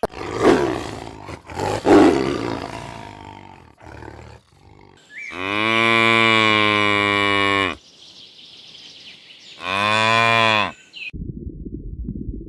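Cow mooing: two long, low, deep moos, the first about five seconds in lasting over two seconds, the second shorter near the ten-second mark, after some rough, noisy outbursts. The sound cuts off suddenly near the end, giving way to a low rumble.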